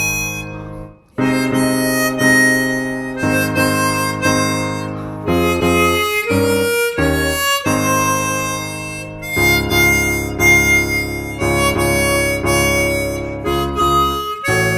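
Harmonica playing a slow classical impromptu, holding sustained notes and chords that change every second or so, with a short break about a second in.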